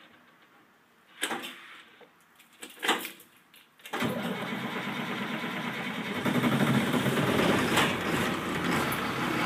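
2005 Blue Bird Vision school bus's Caterpillar diesel cold-starting at about 29°F. Two short clicks come first; then, about four seconds in, the engine turns over and fires, getting louder about two seconds later and settling into a steady run. It is a rough start, which the owner puts down to the bus having sat for about two days.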